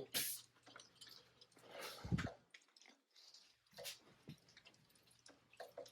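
Faint, scattered clicks and soft rustles of hands and a tool working around a spark plug in an engine bay, with a slightly louder scrape about two seconds in.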